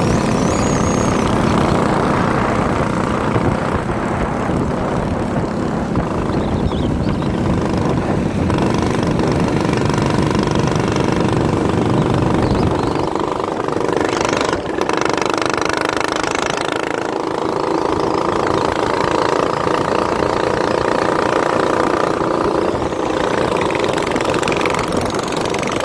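A minibike's small engine runs steadily. About halfway through, its deep low end falls away and the sound becomes thinner.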